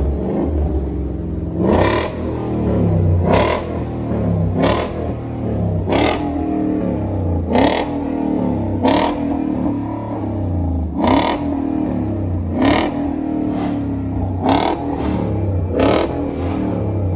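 Ford Mustang V8 engines revved over and over in short, sharp blips, about one every second and a half, with the engine falling back to a steady idle rumble between revs.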